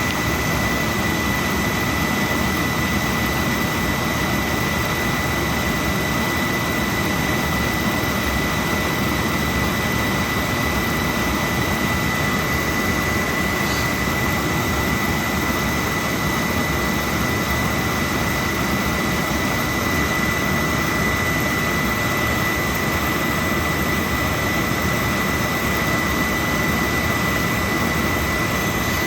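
Oil boiler burner firing steadily: a constant roar from the flame and blower fan, with a thin high whine over it. Its air setting has just been opened up to bring the CO down during a combustion test.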